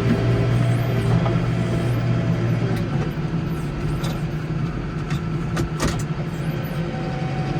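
Case 115U garden tractor engine running steadily under load, its pitch dipping slightly partway through, with a few sharp knocks or scrapes near the middle.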